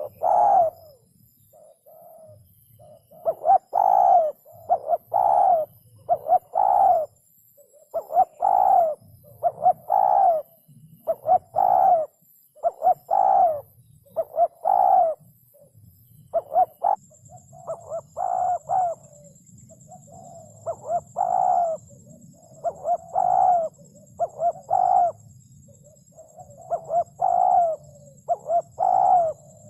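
Spotted dove cooing: short groups of two or three low coos, repeated over and over with brief pauses between groups.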